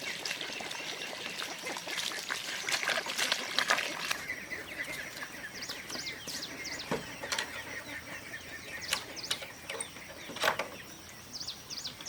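Birds chirping repeatedly in short, high, sweeping calls, with scattered clicks and a rustling, splashy noise in the first few seconds.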